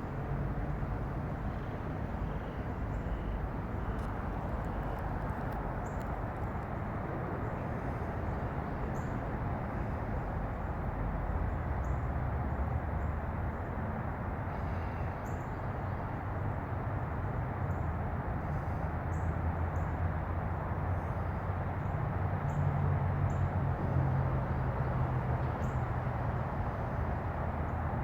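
Steady outdoor background rumble with short, high bird chirps scattered through it; the rumble swells a little around the middle and again near the end.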